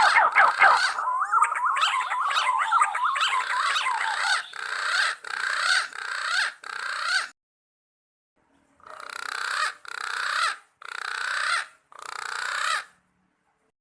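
Punai green pigeons calling with warbling, gliding whistles. Several birds overlap at first, then single short phrases repeat, pause about halfway, and return four more times before stopping abruptly near the end.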